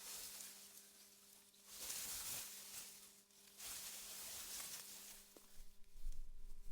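Faint wind rustling through grass in soft gusts that swell and fade every second or two, over a steady low hum. A deep rumble rises near the end.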